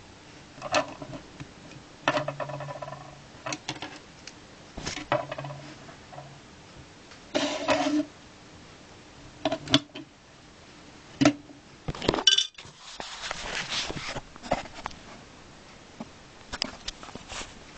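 LEGO pieces being handled: irregular sharp plastic clicks and short clatters, with a couple of longer rustling stretches in between.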